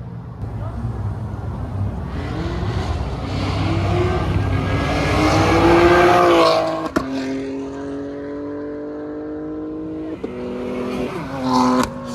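A car's engine accelerating hard, its note climbing in pitch and loudness until about six seconds in, with a sharp crack about a second later. A steady engine tone follows, then a short rising rev that cuts off abruptly near the end.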